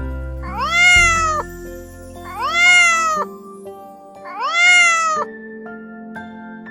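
Domestic cat meowing three times, each call about a second long, rising then falling in pitch, over light children's background music.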